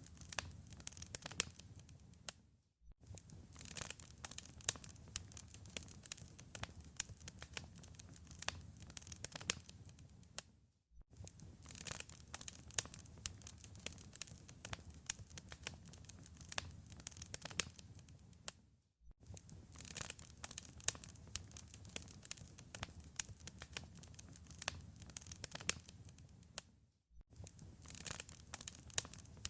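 Wood fire in a fireplace crackling: dense, irregular sharp pops over a steady low noise of the flames. The sound drops out to silence for a moment about every eight seconds, four times.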